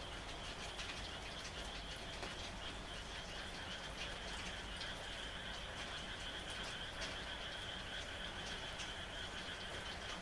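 A chorus of frogs calling steadily at night, a high continuous trilling, with a lower-pitched call joining in about two-thirds of the way through. Light rain ticks and patters throughout.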